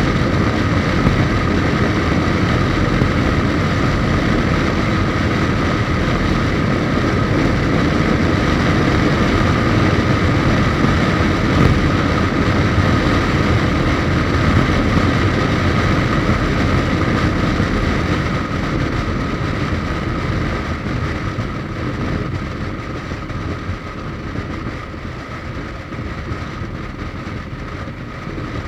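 Suzuki GSX1250FA inline-four engine running at a steady cruise, with wind rushing over the microphone. The sound eases off and gets quieter about two-thirds of the way through.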